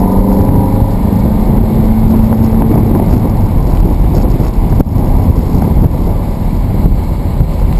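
Exotic sports car at speed, heard from inside the cabin. A steady engine note holds for the first three seconds or so, then gives way to loud road and wind rush.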